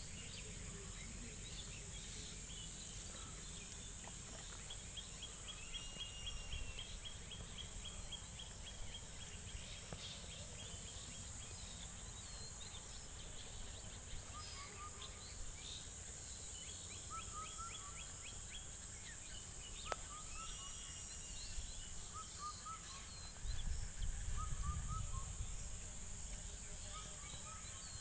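Rural outdoor ambience: a steady high insect drone with scattered bird chirps, including two spells of a rapid trill. About 23 seconds in, a low rumble swells for a couple of seconds.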